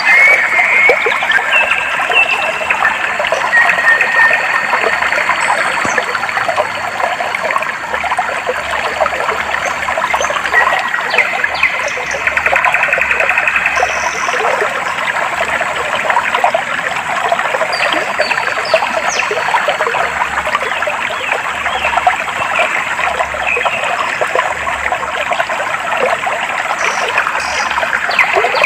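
Clear water flowing and trickling steadily, with a busy splashing patter, and a few short bird calls above it.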